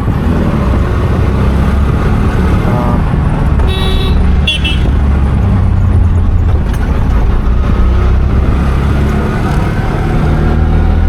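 Bus engine running with a steady low drone, and two short high toots of a vehicle horn a little before halfway through.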